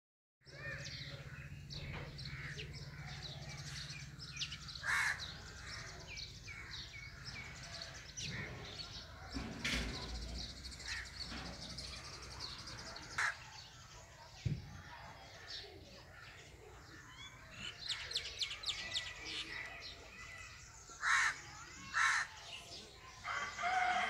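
Small birds chirping and calling with short, high notes. The calls come thick and fast for a few seconds late on, and two louder calls follow near the end.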